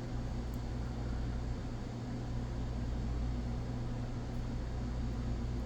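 Steady low electrical hum with an even hiss, unchanging, with one faint small click about half a second in.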